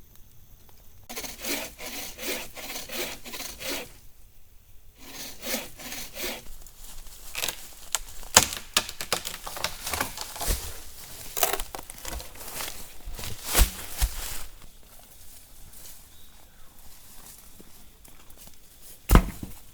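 Hand saw cutting through a firewood log in quick back-and-forth strokes, with a short pause about four seconds in. Later come irregular sharp cracks and knocks of wood, the loudest near the end.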